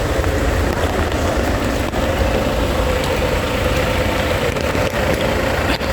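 Steady vehicle rumble mixed with the hiss of rain: a drive through rain.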